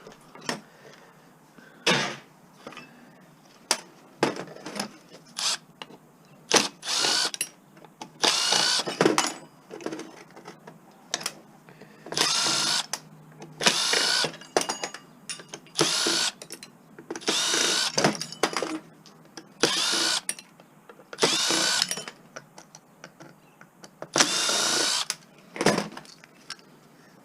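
Power drill driving screws out of an appliance casing in repeated short runs, the motor pitch rising as each run spins up, with sharp clicks of parts and the bit between runs.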